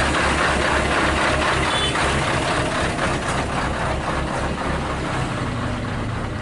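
Heavy diesel engine running under load with a low, rhythmic pulsing of about four beats a second. The pulsing fades near the end, leaving a steadier, slightly quieter engine sound.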